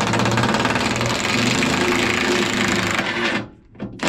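Impact wrench hammering on a rusted bolt, a fast steady rattle that stops about three and a half seconds in, with a short burst just before the end.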